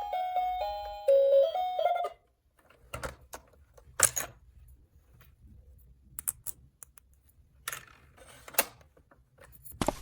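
A short electronic toy melody of simple beeping notes that cuts off about two seconds in, followed by scattered light clicks and taps of plastic toy pieces being handled.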